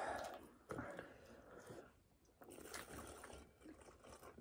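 Faint chewing and small mouth sounds, with a few light clicks.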